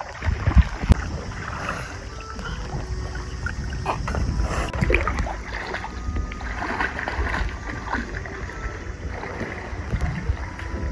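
Water sloshing and lapping, with wind rumbling on the microphone and a few soft knocks.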